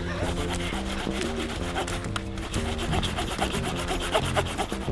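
Hand saw cutting through the trunk of a small snow-covered conifer in rapid back-and-forth strokes, with background music underneath.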